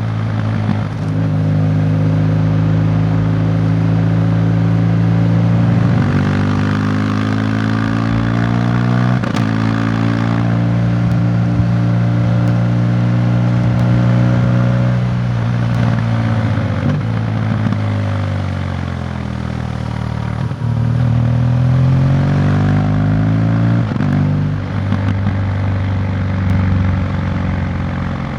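Motorcycle engine running while under way. Its pitch climbs and falls several times, with a few sudden drops in between, as it accelerates and changes gear.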